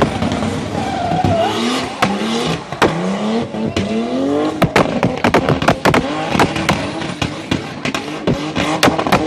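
BMW E30 drift car's engine revving in repeated rising sweeps. From about halfway in, the revs give way to a rapid, irregular run of sharp exhaust pops and bangs.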